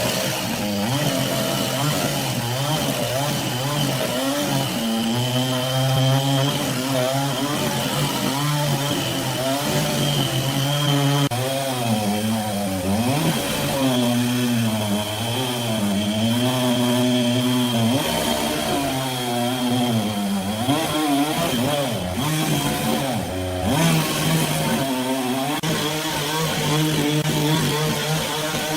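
Chainsaw mill's engine running continuously as it cuts wood, its pitch repeatedly dipping and recovering as the load comes and goes, with a thin steady high whine over it.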